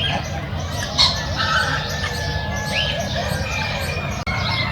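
A mix of many birds calling, with overlapping chirps and squawks and one louder call about a second in.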